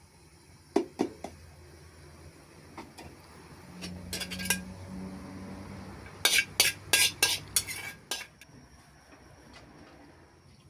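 Metal kitchen utensils knocking and clinking against cookware and dishes: three knocks about a second in, a few more in the middle, then a quick run of about seven clinks near the end.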